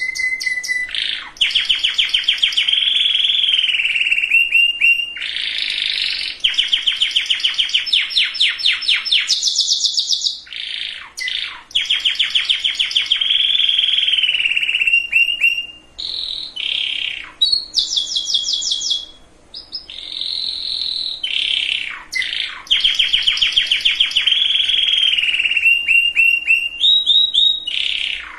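Domestic canary singing a long song of fast trills and rolling repeated notes, one phrase running into the next with a few short pauses.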